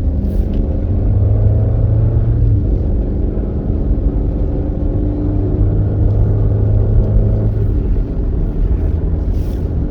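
Car driving, heard from inside the cabin: a steady low drone of engine and tyre noise on the road, with a low engine hum that holds steady for stretches.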